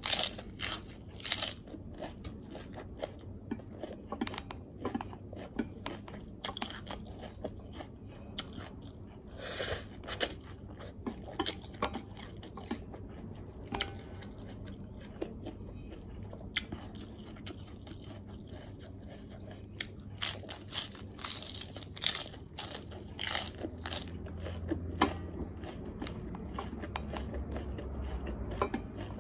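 Close-up eating of crisp lettuce leaves: irregular crunching bites and chewing, with no speech.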